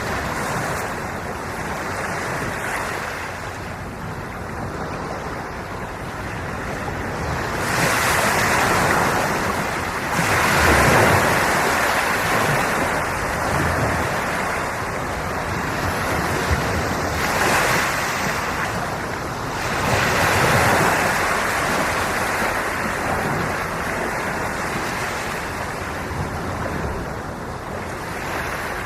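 Ocean waves washing in, the surf swelling and falling away in slow surges every few seconds.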